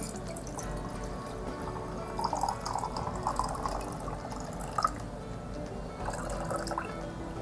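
Water being poured into jars, in bursts of splashing and trickling about two seconds in and again near the end, with a short clink in between, over background music.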